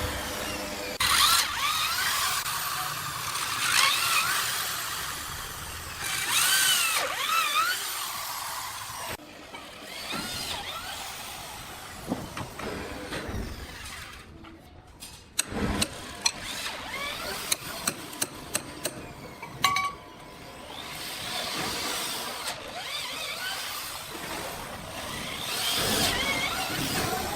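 Sawmill saw cutting into a log, its whine rising and falling as the cut goes. Midway a run of sharp knocks sounds.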